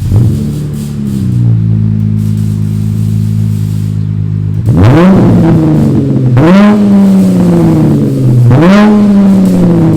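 2017 Dodge Challenger's 3.6-litre V6 with the rear mufflers deleted and straight-piped, starting up with a brief flare that settles into a steady idle. About five seconds in it is revved three times, each a quick rise in pitch falling slowly back to idle.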